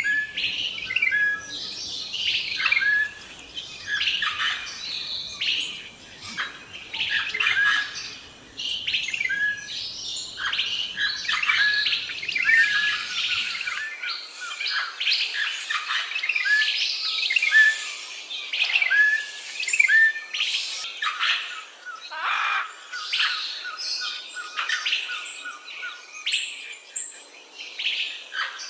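A busy chorus of wild songbirds: many short chirps and whistles from several birds at once, overlapping throughout.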